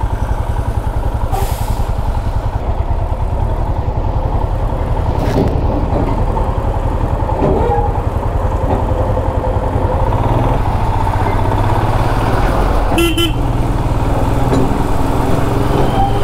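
Royal Enfield motorcycle engine running steadily at low road speed. About three-quarters of the way through, a vehicle horn gives one short toot.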